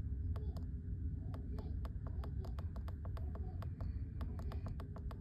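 Faint, irregularly spaced clicks and taps from handling and pressing through an Apollo diagnostic scan tool, over a steady low hum and rumble.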